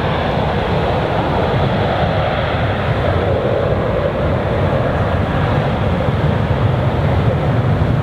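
Jet airliner engine noise, a loud steady rush with no breaks, from a passing airliner.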